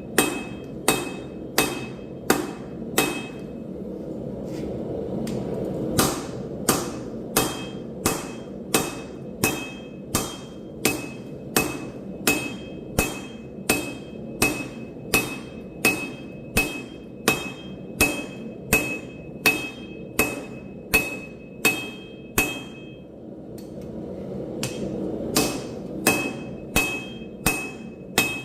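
Hand hammer striking steel on an anvil in a steady rhythm of about two blows a second, each blow leaving a high metallic ring. The hammering stops twice for a couple of seconds, and a steady rushing noise underneath grows louder in those breaks.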